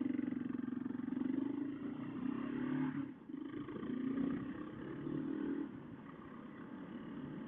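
Kawasaki KLR 650's single-cylinder engine pulling away, its pitch rising, dipping briefly about three seconds in, rising again, then easing off near the end.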